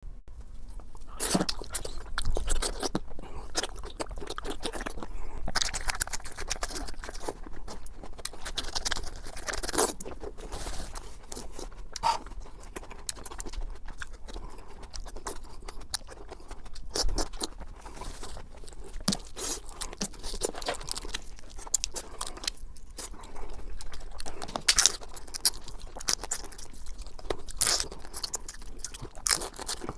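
Close-up chewing and biting of food, with frequent irregular crunches and wet mouth sounds.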